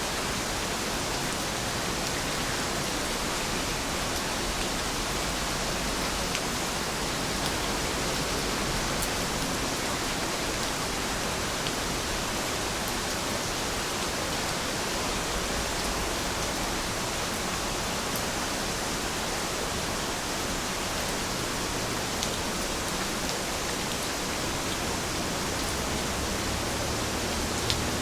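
Heavy rain falling steadily, a dense even hiss of drops with an occasional faint tick of a single drop.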